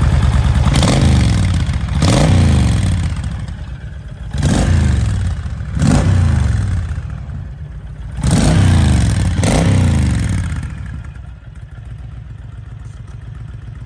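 2019 Honda Fury's V-twin engine through its stock exhaust, blipped three times in quick pairs of revs that each fall back to idle, then settling to a steady idle near the end.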